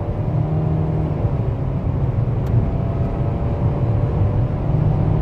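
A 2.0-litre LPG car's engine pulling hard under heavy throttle, heard from inside the cabin over steady road rumble. It grows slightly louder as the car picks up speed.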